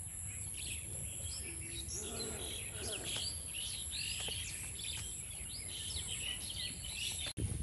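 Several small birds calling and chirping, many short high notes overlapping throughout, over a low steady rumble.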